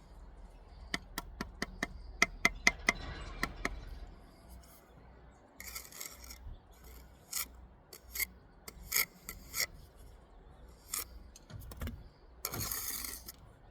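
Steel brick trowel against brick and mortar: a quick run of about a dozen sharp clicks early on, then a series of short scraping strokes, the last and longest near the end, as wet mortar is scraped and cut off the joints.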